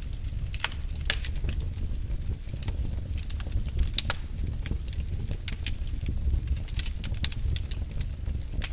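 Fire burning in a fireplace, with irregular sharp crackles and pops over a steady low rumble of the flames.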